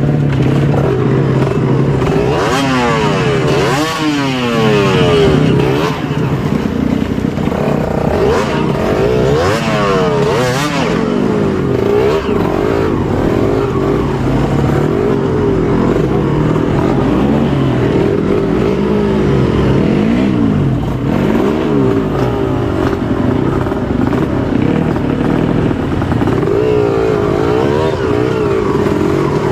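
Trail motorcycle engine revving up and down over and over as the bike is worked over rough ground, with occasional knocks.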